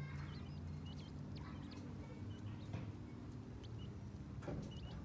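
King quail chicks giving many short, high peeps, with a few light taps as the birds peck at food, over a low steady hum.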